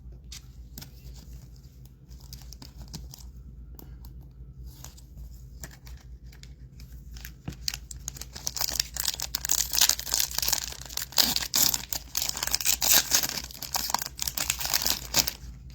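A foil trading-card pack being torn open and its wrapper crinkled: faint handling clicks at first, then dense, loud crackling from about eight seconds in until just before the end.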